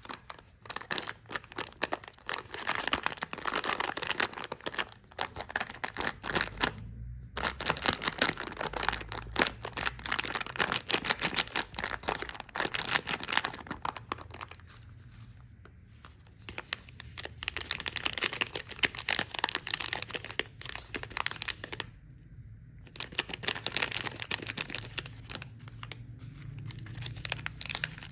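Candy wrappers crinkling and tearing as they are handled and opened, in long crackly bursts with a few short pauses.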